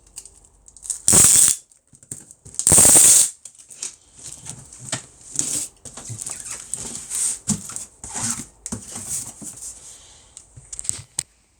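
Packing tape pulled off a tape gun across a cardboard box in two loud screeching strips, the second longer, followed by the rustling and knocking of the cardboard being handled and pressed down.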